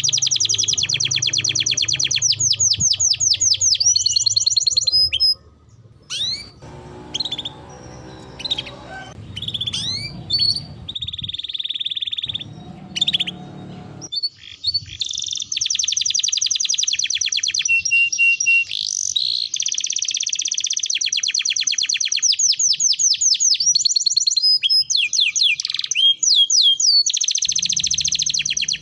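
Songbird singing long, fast trills and rolls of rapidly repeated high notes, broken by short pauses and quick rising whistles.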